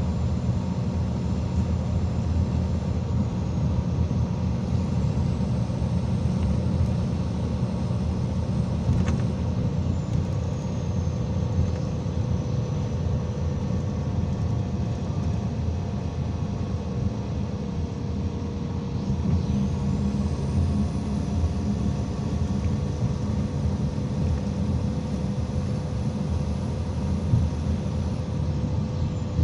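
IVECO Crossway 13M PRO city bus under way, heard from on board: a steady low engine and road rumble with faint steady drivetrain tones. A faint high whine rises twice and falls away twice as the bus speeds up and slows down.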